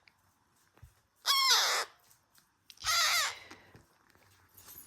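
Baby parrot giving two harsh calls, each about half a second long, about a second and a half apart.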